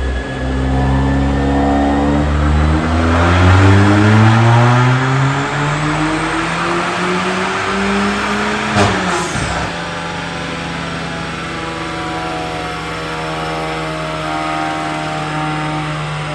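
Kia K3 GT's 1.6 T-GDI turbocharged four-cylinder, through a tuned chambered exhaust, revving up with a steadily rising pitch for about eight seconds. A single sharp pop comes about nine seconds in, then the engine runs on at a steady speed.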